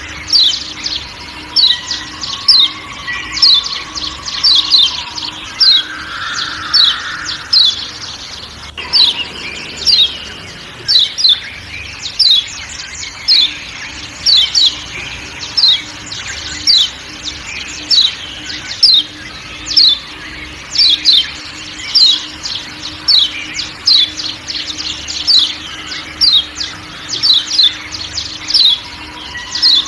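Kecial kuning (Lombok white-eye, a Zosterops) giving its repeated 'ciak ciak' calls: short, high notes, each sweeping quickly downward, about two a second without a break. Fainter, lower whistles from other forest birds sound underneath.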